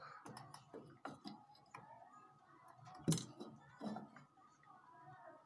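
Irregular light clicks and taps of small jeweller's tools on a metal earring, with one sharper click about three seconds in.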